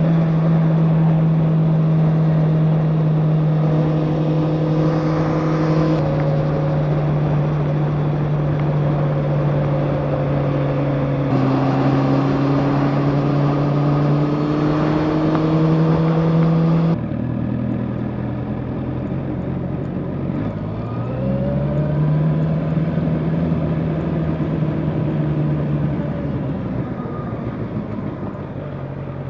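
Motorcycle engine running at a steady cruise under load, with road and wind noise. About two-thirds of the way in it turns quieter, then its note drops and climbs again as the bike slows and picks up speed.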